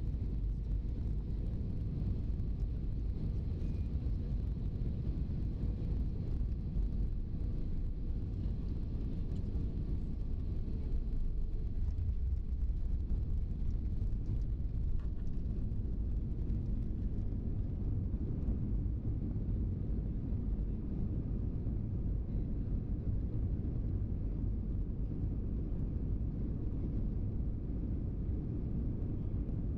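Steady low rumble of an airliner's engines and airflow heard from inside the passenger cabin, with a faint steady hum above it.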